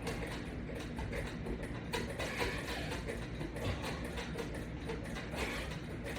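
Irregular clicking and rattling of metal resistance-band attachment hardware, repeated quickly during exercise reps.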